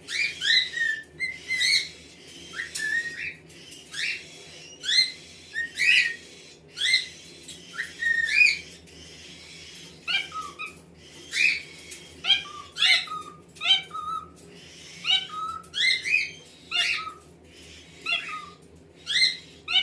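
Cockatiels chirping: a string of short, rising whistled calls, one or two a second, some in quick pairs.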